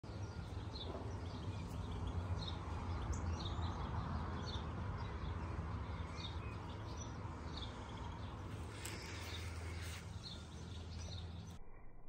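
Small birds chirping, short high calls repeating about once a second, over a low steady rumble.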